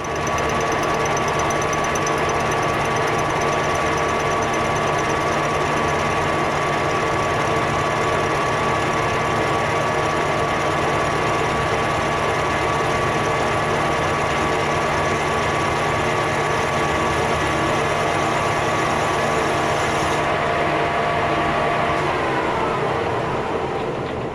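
Metal lathe running steadily under power, a gear whine with several held tones over a mechanical rumble. About 22 seconds in the whine cuts out and the machine winds down near the end.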